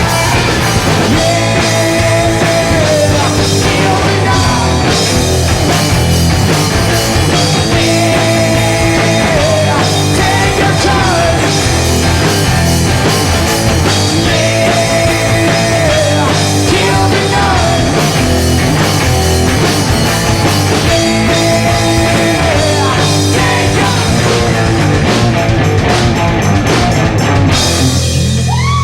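Live garage rock band playing with electric guitar, bass, drum kit and singing. Near the end the drums stop and a held chord keeps ringing.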